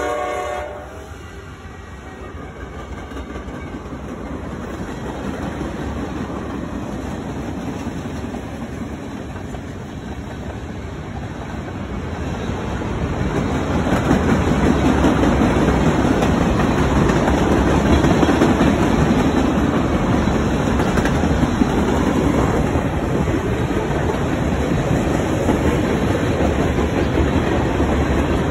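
Norfolk Southern freight train passing close by: the locomotive horn cuts off just after the start, then the steady rumble and clatter of the freight cars' wheels on the rails. It grows louder about halfway through as the tank cars roll by and stays loud.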